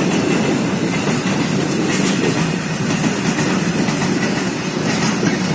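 Freight train of covered goods wagons rolling past: a steady, loud rumble of steel wheels on the rails, with an occasional clack as wheels cross rail joints.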